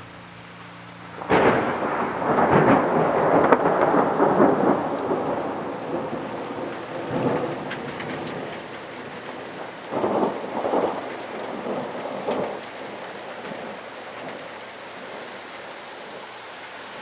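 Steady rain with a thunderclap that hits suddenly about a second in and rumbles on for several seconds, followed by shorter rolls of thunder later on.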